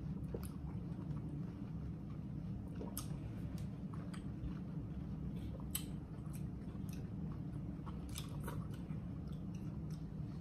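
Mouth chewing juicy watermelon, with scattered short wet clicks and smacks, over a steady low hum.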